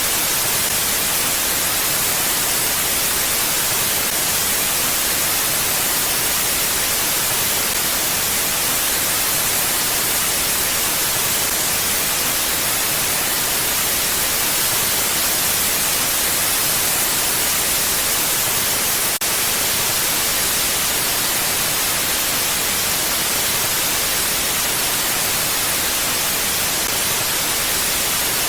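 Wind making a steady, even hiss that is strongest in the high end, with no gusts, and one brief dip in loudness about two-thirds of the way through.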